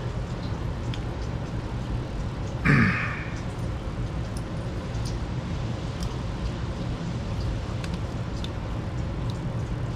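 Faint clicks and ticks of small carburetor parts being handled while a spring is compressed, over a steady low hum. About three seconds in comes one short, louder sound whose pitch falls.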